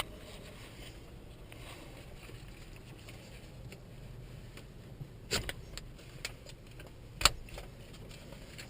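Faint steady background noise with a few sharp clicks and knocks, the clearest about five and seven seconds in: handling sounds inside the cockpit of a Cessna 172N before engine start.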